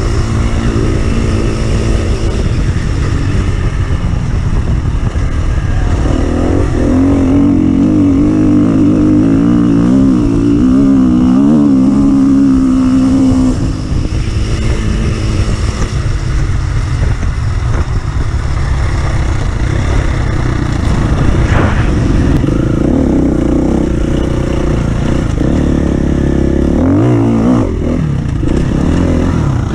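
Off-road vehicle engine running loudly, its pitch rising and falling as the throttle is worked, over a steady low rumble.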